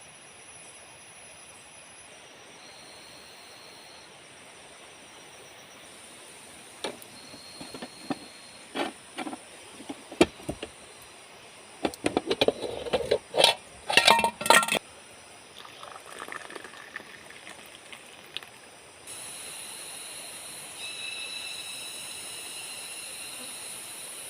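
Tropical forest ambience: insects calling in steady high-pitched tones that grow louder about three quarters of the way through. In the middle there is a run of sharp knocks and clatter, loudest and most crowded just before the halfway point.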